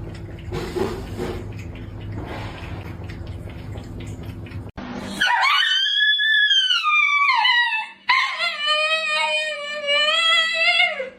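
A dog howling: two long calls, the first rising and then falling in pitch, the second held level with a slight waver.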